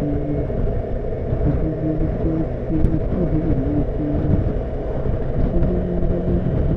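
Honda CBF motorcycle engine running on the move, its pitch stepping up and down with throttle and gear changes, under a thick low rush of wind.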